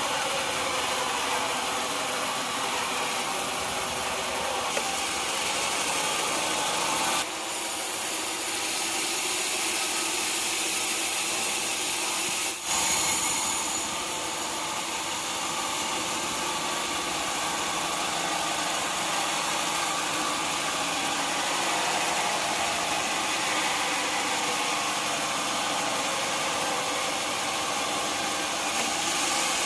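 Sawmill machinery running steadily: an engine-driven hum with saw noise. It breaks off abruptly twice, a little after 7 seconds in and again about 12 seconds in.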